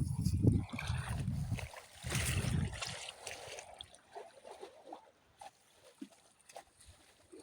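Water sloshing and splashing over a low rumble, then dying down to a few faint ticks from about four seconds in.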